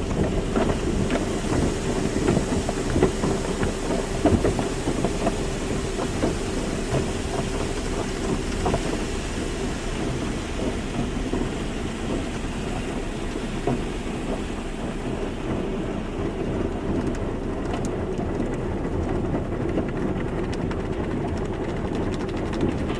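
Automatic car wash running: water jets spraying and pattering hard on a car's body over a steady machine hum, the spray gradually easing over the stretch.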